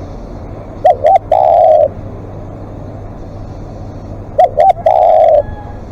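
Spotted dove cooing twice, each phrase two short coos followed by one long drawn-out coo, the phrases a few seconds apart.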